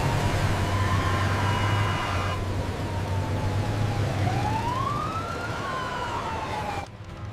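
Police siren wailing, its pitch slowly rising and falling twice, over a steady low engine rumble. It cuts off suddenly near the end.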